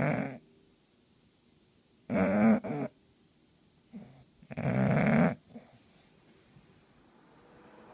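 English bulldog snoring loudly in its sleep: long, rough snores about two and a half seconds apart, with quiet breathing between, typical of the breed's short, flat-nosed airway.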